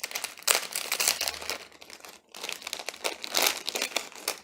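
Packaging being crumpled and pulled off a new electrical switch by hand, as crackling noise in two stretches with a short break about two seconds in.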